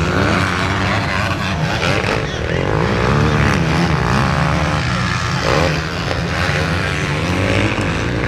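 Several motocross bikes running on the track, their engines revving up and down and overlapping as the riders open and close the throttle.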